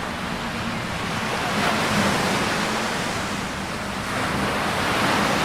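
Ocean surf washing onto the beach, a steady rushing that swells about two seconds in and again near the end as waves break.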